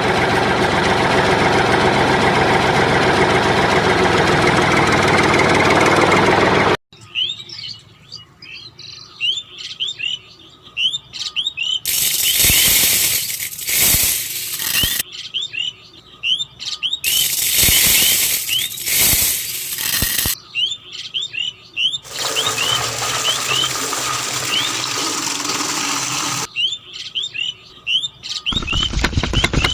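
A small engine running loudly, cut off abruptly about seven seconds in. Then birds chirping in quick repeated rising calls, broken by several stretches of loud hissing noise of a few seconds each.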